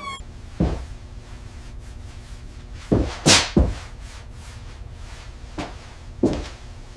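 A series of heavy thuds and knocks over a steady low rumble, with a short whooshing rush about a third of the way in, as a heavy part is lowered into place.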